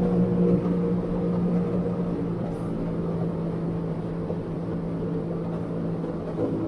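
Sea-Doo GTI 130 jet ski's three-cylinder Rotax engine running steadily under way, holding an even pitch, easing off slightly about a second in.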